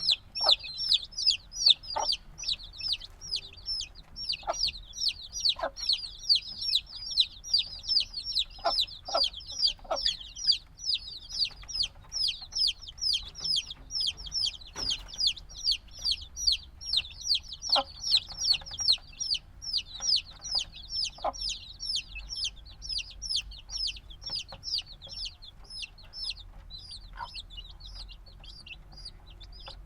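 A brood of chicks a few days old peeping continuously: a dense run of high, downward-sliding peeps, several overlapping each second, with occasional short taps underneath. The peeping thins a little near the end.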